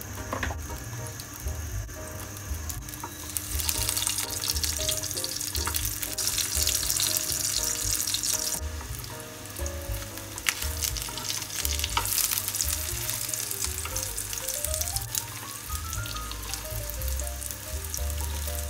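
Breaded pieces shallow-frying in hot oil in a pan, a steady sizzle that swells louder about four seconds in and again about twelve seconds in, with a few sharp clicks of metal tongs. Quiet background music runs underneath.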